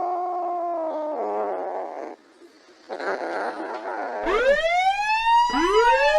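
Edited sound effects: a held, wavering cry that stops after about two seconds, a brief silence, a short rough burst, then a siren sweeping up and down from about four seconds in.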